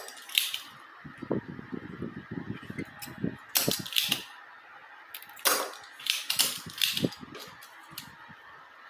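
Hand tools working on a circuit board during capacitor removal: a run of sharp clicks, taps and short scrapes with pauses between them.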